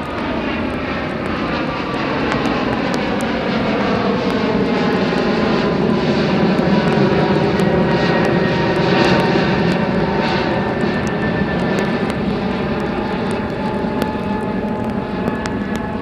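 Boeing 777-300 jet airliner's engines at takeoff power as it passes, a loud roar with falling tones that swells to its loudest about eight to ten seconds in and then slowly fades.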